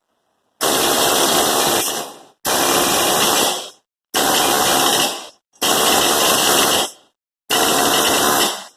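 Husky pneumatic air hammer running in five bursts of about a second and a half each, with short pauses between, hammering at a rusted brake drum to break it loose.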